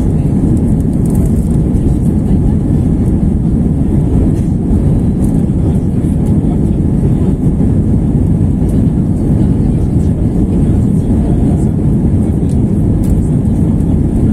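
Steady rumble of an Airbus A321-231's IAE V2500 turbofan engines and rushing air during the climb, heard inside the passenger cabin.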